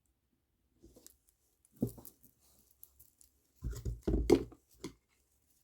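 Plastic kandi beads clicking and rustling as a beaded cuff is handled and restrung: a few irregular short clicks and rustles, loudest in a cluster a little past halfway.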